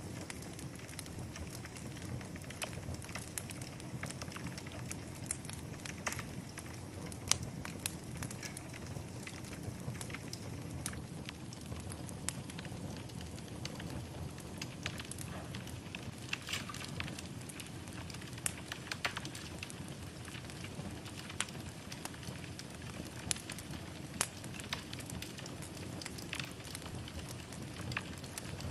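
Wood fire burning in a fireplace, with a steady low rumble and irregular crackles and sharp pops scattered throughout.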